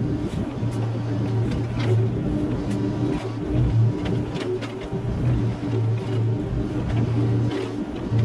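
Mini excavator's diesel engine running, its drone dipping and picking up again several times as the load changes, with scattered short clanks and knocks throughout.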